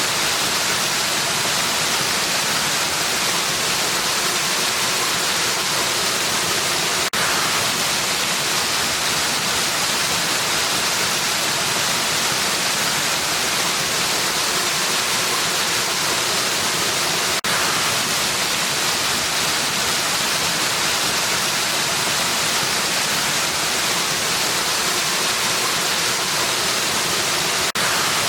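Steady rushing hiss of a waterfall, with three brief momentary dips about ten seconds apart.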